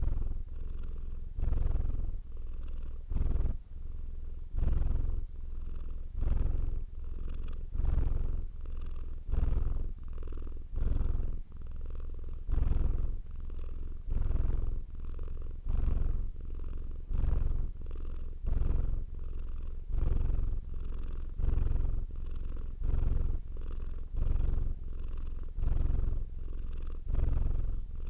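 Domestic cat purring steadily, the purr rising and falling with each breath: a louder phase and a softer phase, about one breath every second and a half.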